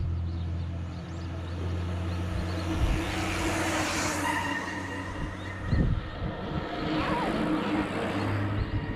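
Road traffic passing: two vehicles swelling up and fading away, about three and seven seconds in, over a steady low hum, with a short thump near the six-second mark.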